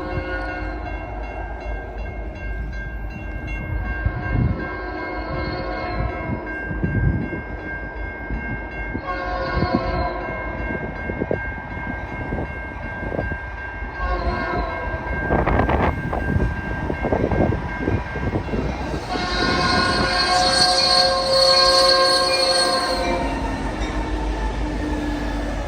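Freight train led by an EMD SD70I diesel sounding its Nathan P5 five-chime air horn in a series of blasts, several short ones and then a longer one near the end, over the low rumble of the diesel engines and wheels on the rails. The horn has an odd, out-of-tune sound.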